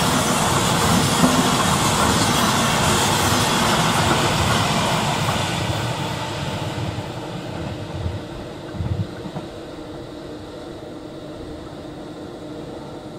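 Electric passenger train of single-deck intercity coaches running past and receding. Its rolling and wheel noise is loud at first and fades over several seconds, with a couple of short low thumps as it fades.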